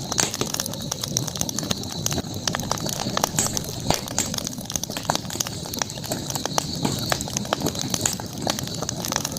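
Campfire burning, with many sharp crackles and snaps scattered over a low steady rumble of the flames and a constant high hiss.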